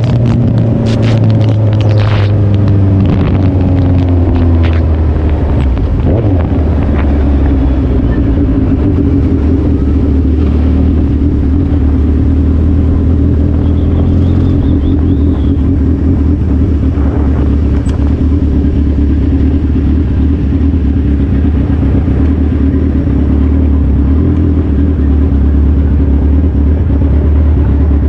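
Suzuki Hayabusa's inline-four engine running under way. Its pitch falls over the first few seconds as the bike slows, then holds steady at a constant cruising note.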